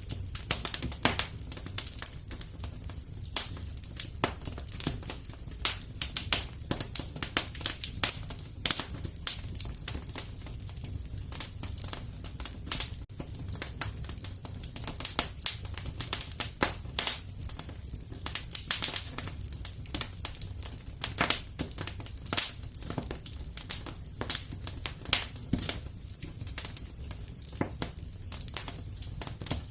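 Wood fire in a fireplace crackling and popping, with sharp irregular snaps several times a second over a low, steady rumble.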